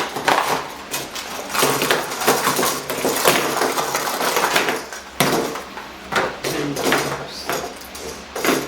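Clattering and rustling of small hard objects being handled, as boxes of electrical wall switches and receptacles are sorted through, with irregular clicks and knocks throughout.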